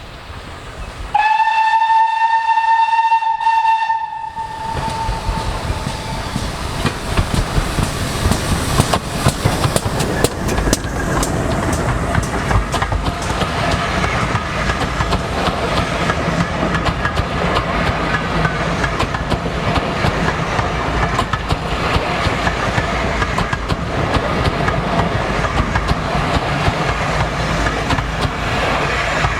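Steam locomotive whistle blown once, a single held note for about three seconds. Then the train comes through close by: a steady heavy rumble with rapid rail clatter that lasts to the end.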